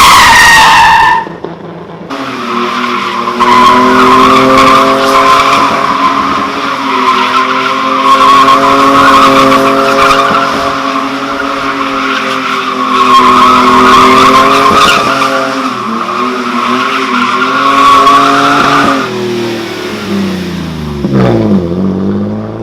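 A car doing donuts: its tyres squeal steadily while the engine is held at high revs. Near the end the revs drop away.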